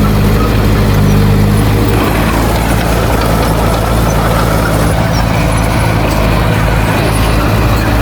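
Heavy diesel engine of earthmoving machinery running steadily, its note shifting slightly about two seconds in.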